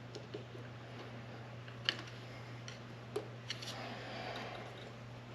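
Light clicks and ticks of hand work on a pod filter's clamp, with sharper ticks about two and three seconds in. A steady low hum runs underneath.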